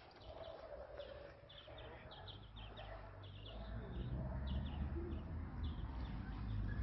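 Birds calling: short high chirps repeated throughout, with a low cooing note, over a low rumble that grows louder about halfway through.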